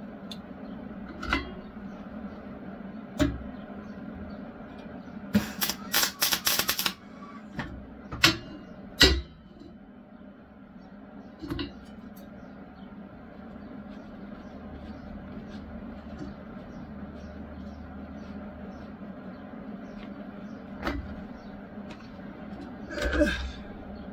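Workshop handling noises: scattered knocks and clicks of metal tools and parts over a steady low hum, with a quick run of sharp clicks and crackles about five to seven seconds in and another clatter near the end.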